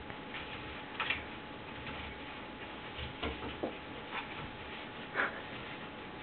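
Irregular light knocks and clicks of a cupboard door being pawed and worked open by a cat, a handful of taps, the loudest about a second in and near the end.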